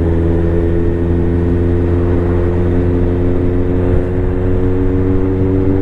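Motorcycle engine running at a steady speed on the move, its pitch holding level throughout.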